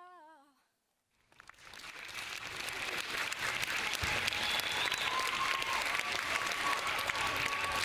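An unaccompanied singing voice fades out, and after a brief silence audience applause starts about a second in and swells to full, steady clapping.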